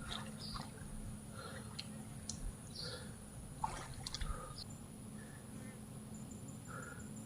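Faint water sounds, light dripping and small splashes, with scattered short bird chirps. Near the end a high, fast, even insect trill starts up.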